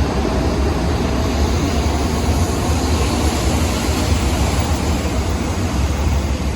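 Sanyo Shinkansen high-speed train moving along the platform: a loud, steady rush of air and rolling noise over a deep rumble.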